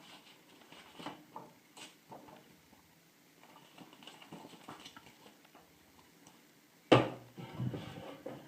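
Objects from an unboxing handled on a desk: scattered light taps and rustles, then a sharp knock about seven seconds in, followed by a moment of shuffling as something is set down and moved.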